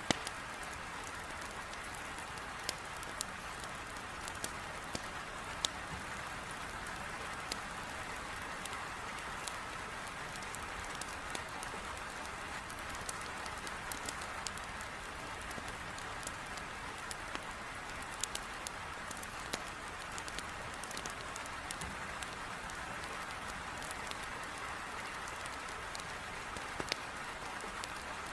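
Heavy rain hissing steadily, with irregular sharp pops and crackles of a burning wood fire.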